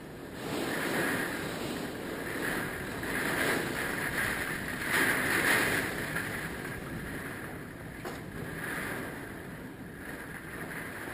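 Hurricane-force wind gusting, swelling and easing, with the loudest gust about five seconds in before it settles somewhat.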